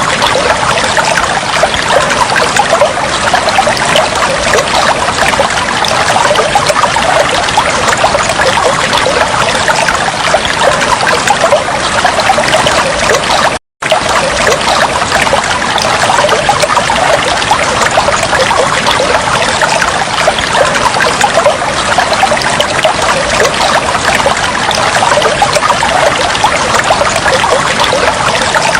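Steady trickling, flowing water that cuts out completely for a split second about halfway through.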